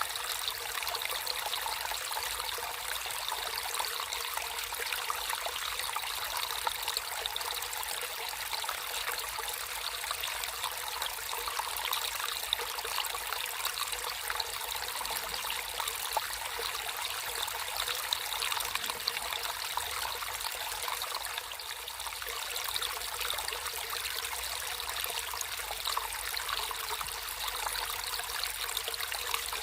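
Water trickling and flowing steadily in a small stream, a constant babble with many small splashing flickers.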